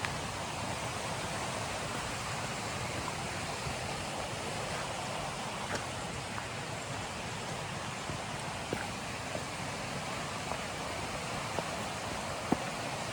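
River water rushing steadily, with a few faint clicks scattered through it and one sharper click near the end.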